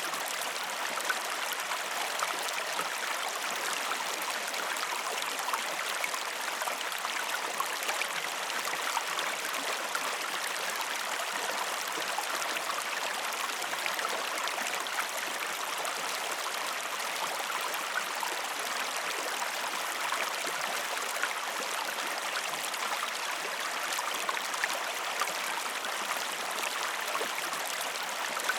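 A river flowing steadily: an even rush of water with small splashy ticks scattered through it.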